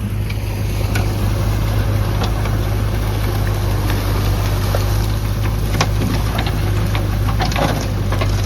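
Heavy-machine engine running at a steady speed, with scattered short clicks and knocks that come more often in the second half.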